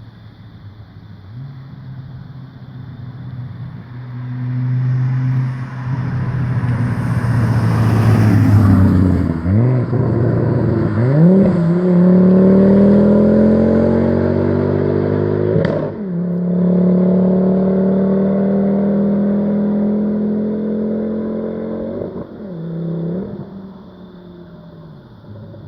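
Volvo C30 T5's turbocharged 2.5-litre five-cylinder engine through a custom 3-inch stainless exhaust, pulling hard under acceleration. Its pitch climbs steadily, with quick up-and-down sweeps about ten seconds in, and breaks twice as the car shifts up. Near the end the engine falls away and quietens.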